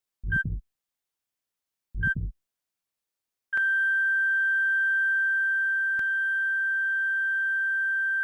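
Hospital heart-monitor sound effect. Two short beeps, each with a soft double heartbeat thump, come about a second and a half apart. Then a long, unbroken, steady flatline tone runs from about three and a half seconds in.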